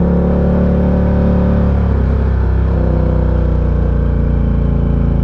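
Ducati Diavel 1260's 1262 cc V-twin engine running steadily under way, with a brief dip in its note about two seconds in.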